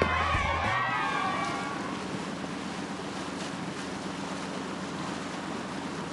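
Steady seaside ambience: an even wash of waves and wind with a low steady hum underneath. Cheerful music fades out within the first second or so.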